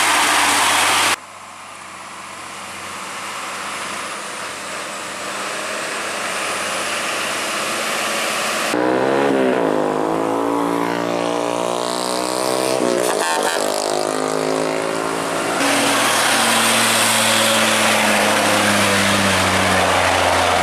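Heavy diesel truck engines labouring up a steep hill, their pitch rising and falling with gear changes and throttle, in several short segments that cut abruptly from one to the next.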